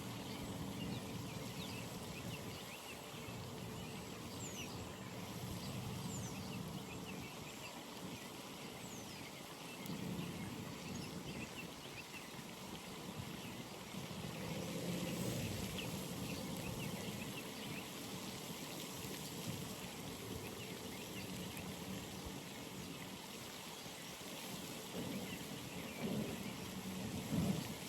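Pond ambience: water trickling steadily, with many faint short chirps and a few thin falling whistles scattered throughout, and low swells of sound about ten, fifteen and twenty-six seconds in.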